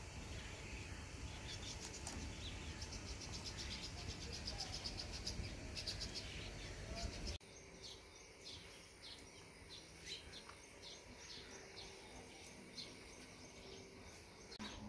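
Small birds chirping outdoors: quick high trills in the first half, then short chirps repeated about twice a second after an abrupt change in background about halfway through.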